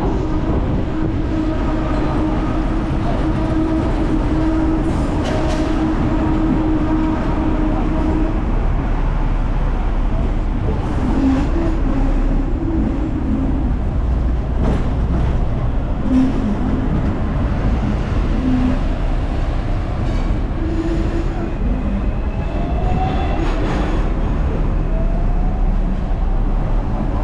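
Hong Kong double-decker electric tram running on its street track: a steady rumble of wheels and car body with a motor hum, and a short rising whine near the end.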